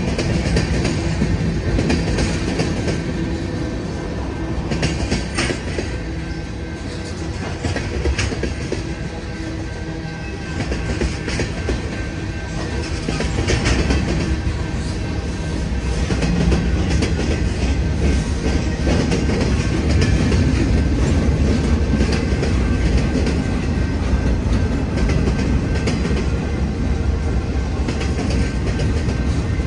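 Freight train cars rolling past with a steady low rumble, their steel wheels clicking over the rail joints. It grows louder about halfway through.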